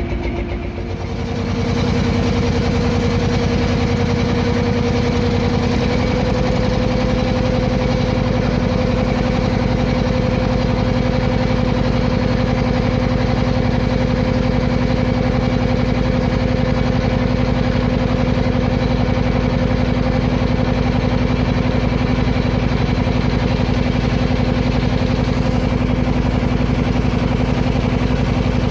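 Klotok river boat's engine running steadily; about a second in it opens up and gets louder, rises slightly in pitch again a few seconds later, then holds an even pace.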